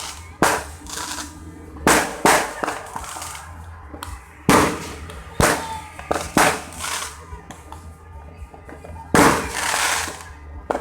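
Fireworks going off: a string of sharp bangs at irregular intervals, a second or more apart, some trailed by a brief crackle.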